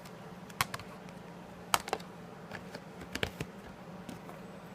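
Crankbait knocking lightly against a pot of boiling water, heard as scattered sharp ticks and taps over a steady low hum.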